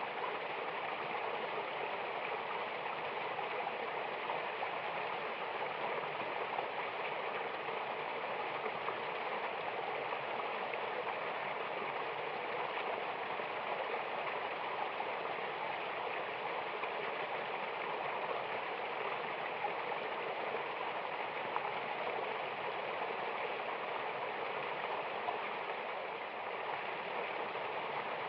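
Steady rushing and splashing of a mountain river or waterfall: continuous white water with no change in flow.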